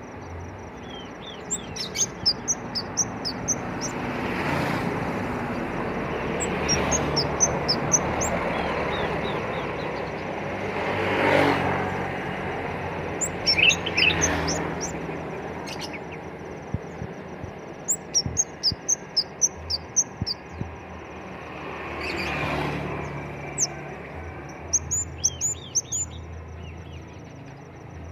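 A songbird known locally as kemade or bangsit singing in repeated runs of quick, high chirping notes, several bouts with short pauses between. Behind it, a rushing background noise swells and fades several times.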